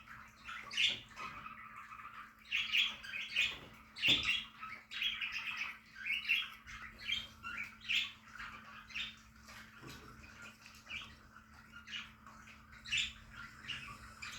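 A colony of budgerigars chirping and chattering: many short, overlapping chirps and squawks in a continuous irregular stream.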